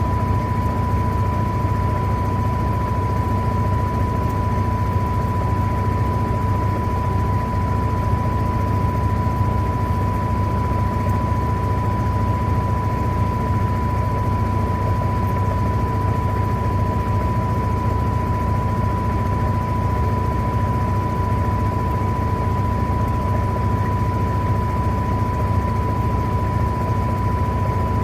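Electrolux LTA15 top-loading washing machine running steadily, a constant high whine over a low hum with no let-up or rhythm.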